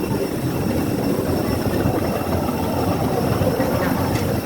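Steady drone of a parked airliner's turbine running, a low rumble with a thin high whine over it.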